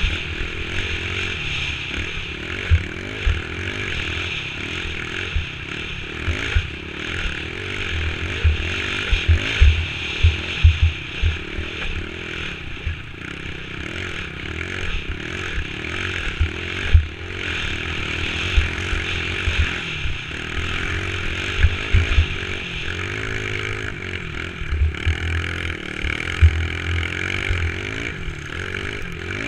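Dirt bike engine running steadily under way, with frequent low thumps and buffeting on the microphone throughout.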